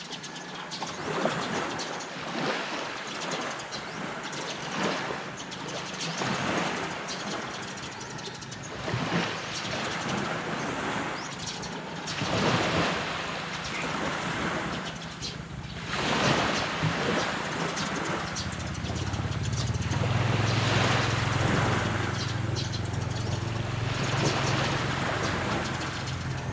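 Waves washing onto a beach, the surf noise swelling and falling back every few seconds. About two-thirds of the way in, a steady low engine hum comes in under the surf and stays.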